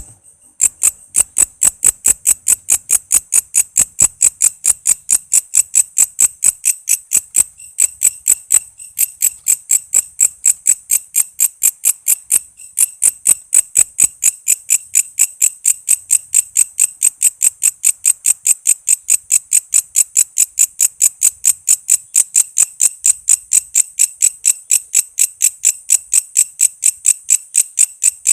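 Walang kece insect calling: a fast, even train of sharp, high-pitched chirps, about four to five a second, with brief pauses a couple of times before the rhythm resumes.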